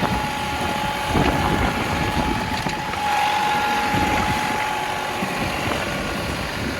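John Deere 2038R compact tractor's 38-horsepower diesel engine running steadily under load while its snowblower attachment clears snow, with a steady high whine over it that is strongest midway.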